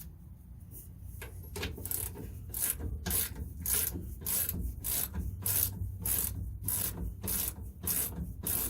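Ratchet wrench being swung back and forth to back out a brake caliper bolt, a regular rasping stroke about two to three times a second.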